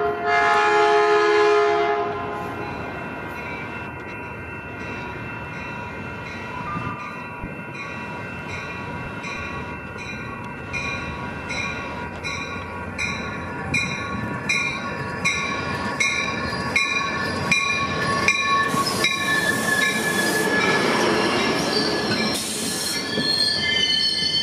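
A Caltrain commuter train sounds its horn for about the first two seconds. Then a level-crossing bell dings about twice a second as the train rolls into the station. Near the end come the rush of the passing cars and a high wheel squeal as the train slows.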